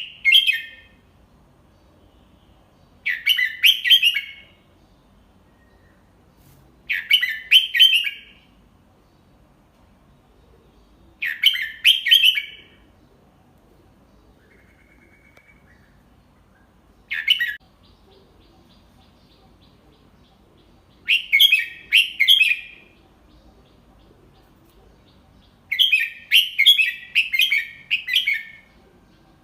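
Red-whiskered bulbul singing its short, clear song phrases about every four seconds, seven in all, one much shorter and the last one longer. This is a tutor song, sung slowly and clearly, for young bulbuls to copy.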